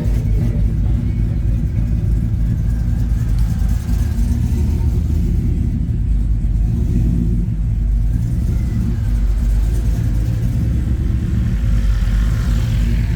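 Steady low rumble of a car engine running, with no clear rise or fall in revs.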